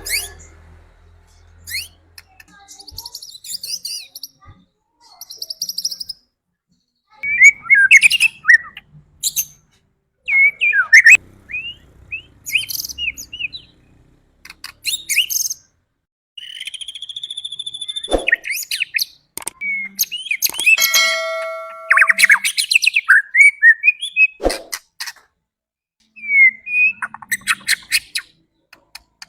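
White-rumped shama (murai batu) singing: loud bursts of varied phrases, with quick sweeping notes, rapid chatters and a few long held whistles, separated by short pauses.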